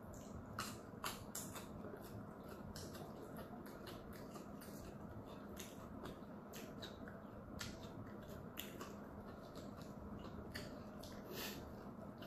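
Close-miked chewing of a kimchi-filled dumpling: soft, wet mouth clicks and smacks at an irregular pace, a few a second, over a faint steady hum.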